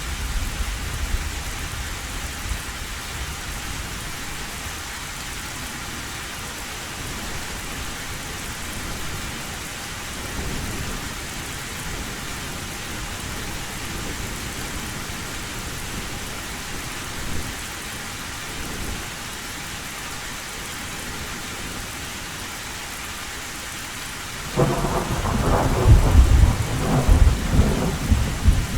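Heavy rain hissing steadily on an old tin roof, with distant thunder rumbling low. Near the end a loud thunderclap breaks in and rolls on in deep, uneven rumbles.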